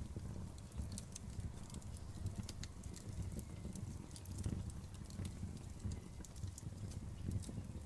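Wood campfire burning, crackling with many irregular sharp pops over a steady low rumble.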